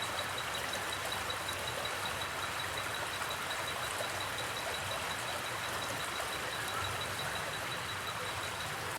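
River water flowing with a steady rush, and a cricket chirping in an even rhythm of about five high chirps a second.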